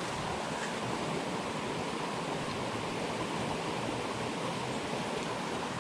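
Steady rush of a fast-flowing jungle stream.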